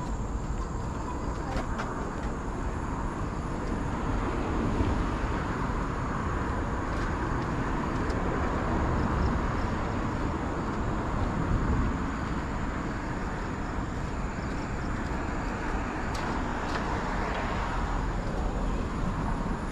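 Road traffic passing, the noise of cars swelling and fading, over a steady high drone of insects.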